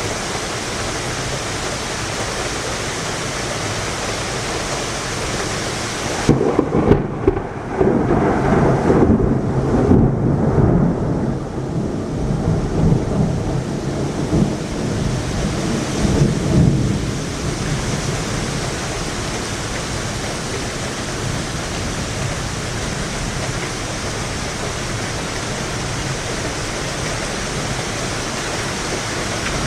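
Heavy rain falling steadily; about six seconds in a thunderclap cracks and then rumbles low for about ten seconds before dying back into the rain.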